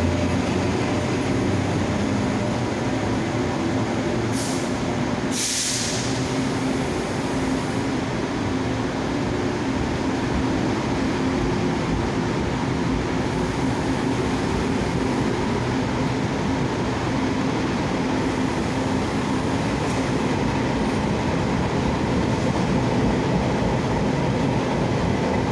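Taiwan Railways E200-class electric locomotive and its passenger coaches rolling out of the station along the platform: a steady rumble of wheels on rail under a low steady hum. Two brief hisses come about four and five seconds in.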